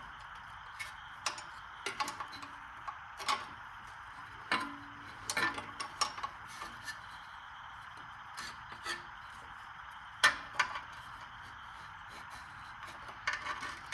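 Hand tools working on an engine's exhaust bolt: irregular metallic clicks and clinks of a wrench or socket, with a sharper knock about ten seconds in, over a steady faint hiss.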